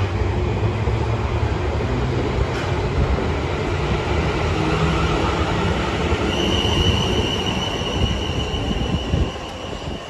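Train rolling along the rails with a heavy rumble that dies away about nine seconds in; from about six seconds in, a steady high-pitched wheel squeal rings out and continues after the rumble fades.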